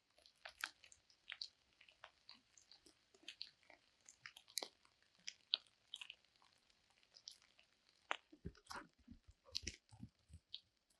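Irregular, crisp crunching and clicking, like something being chewed, a little louder and thicker in the last few seconds.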